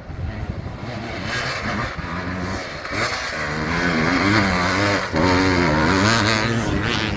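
Enduro motorcycle engine revving hard, its pitch rising and falling unevenly as the throttle is worked, growing louder over the first few seconds.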